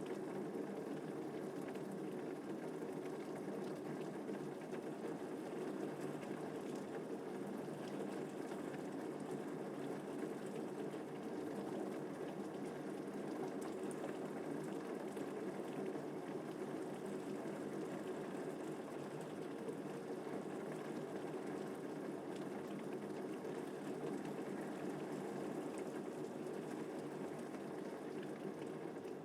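Steady rain falling, an even rushing patter that holds unchanged throughout.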